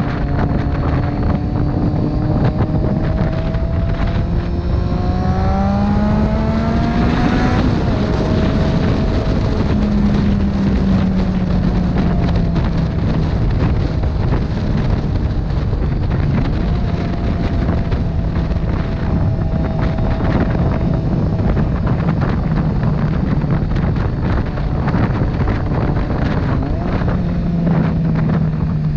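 Motorcycle engine under way, heavy wind noise on the microphone. About a quarter of the way in the engine revs rise, then drop sharply at a gear change; afterwards the revs fall slowly as the bike eases off, picking up again briefly near the end.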